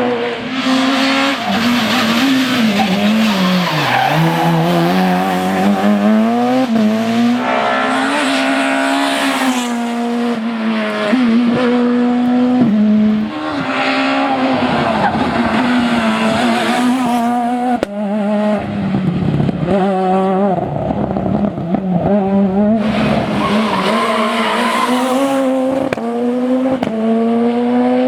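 Super 2000 rally cars' naturally aspirated two-litre four-cylinder engines running hard, the pitch repeatedly climbing and dropping through gear changes and lifts. The sound changes abruptly about 13 and 18 seconds in as one car gives way to another.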